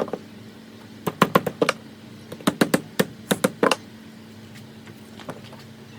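Three quick bursts of sharp taps or knocks, four or five to a burst, over a steady low hum.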